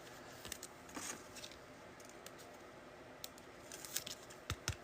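Trading cards and pack wrappers being handled at close range: faint soft rustles and light clicks, with a few sharper taps near the end.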